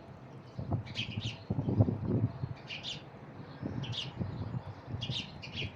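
Small birds chirping: short high chirps, singly or in pairs, about once a second, over uneven low rumbles.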